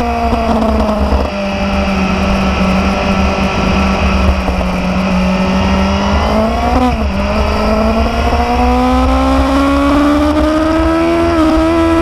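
Motorcycle engine running under way at steady speed, its pitch dipping briefly about seven seconds in and then rising slowly as it speeds up, over a steady low rumble.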